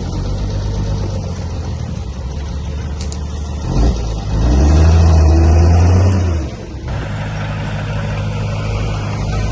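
Diesel engine of heavy earthmoving machinery running steadily. About four seconds in it revs up under load for roughly two seconds, then settles back.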